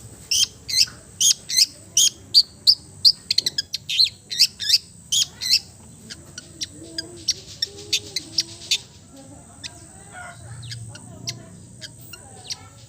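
Small songbird giving a rapid series of short, sharp chirps, about two to three a second; the chirps are loud for the first half, then thin out into sparser, fainter ones, over a faint steady high-pitched tone.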